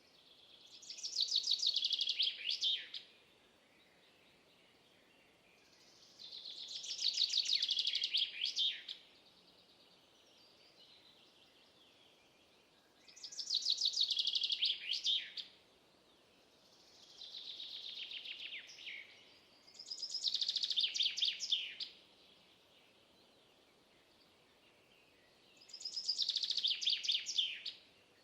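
A songbird singing the same short, high-pitched song of rapid notes over and over: six songs, each two to three seconds long, with a few seconds' pause between them. One song in the middle is fainter than the rest.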